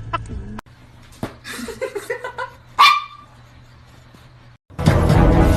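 A dog's rapid yipping trails off at the start; after a cut come softer dog vocal sounds and one sharp bark about three seconds in. Music starts near the end.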